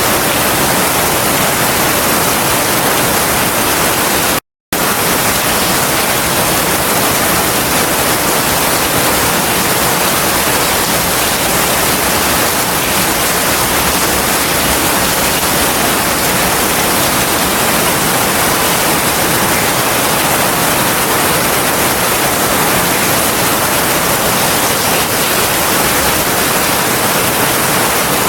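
Heavy rain falling steadily, an even rushing hiss with no thunder, broken once by a brief total dropout about four and a half seconds in.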